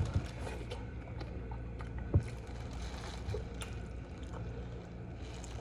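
Mouth sounds of eating with small clicks and ticks, over a steady low hum, with one sharper knock about two seconds in.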